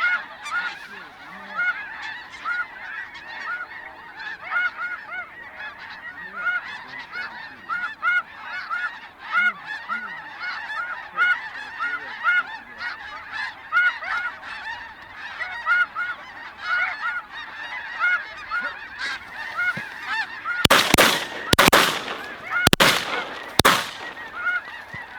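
A flock of snow geese honking continuously, many short high calls overlapping. Near the end, a quick volley of several shotgun shots rings out over the calling.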